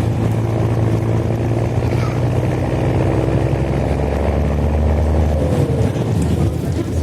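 Mercedes-Benz OH-1420 city bus engine with an open, free-flowing exhaust, running hard with a steady deep drone. Its note shifts a little near the end.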